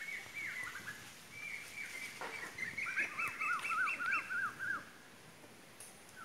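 Birds chirping in strings of short, quick down-slurred notes, with a fast run of repeated notes about halfway through.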